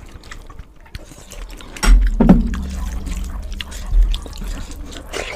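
Close-miked wet eating sounds: chewing and lip-smacking on rice and egg curry, with small clicks at first and louder, heavier mouth sounds from about two seconds in.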